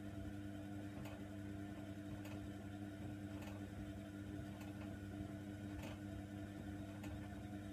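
Hoover Nextra washer dryer running mid-cycle: a steady motor hum with a light tick about once a second.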